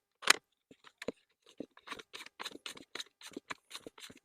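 Small clicks and ticks from hands working the tool-free bar clamp and tension knob of a WORX WG385E cordless chainsaw. One sharper click comes near the start, then a run of light ticks a few per second.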